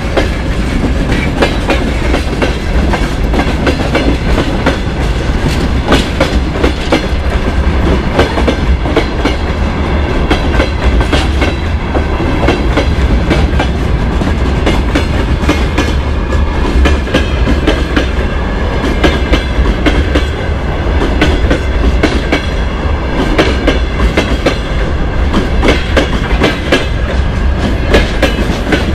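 Freight train wagons rolling past close by: steel wheels clacking over the rail joints with a steady rumble and frequent sharp knocks.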